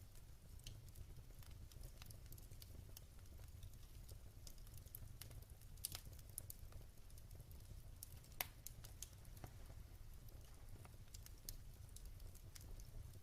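Wood fire crackling in a fireplace: scattered soft snaps and ticks, with two sharper pops about six and eight seconds in, over a faint steady low rumble.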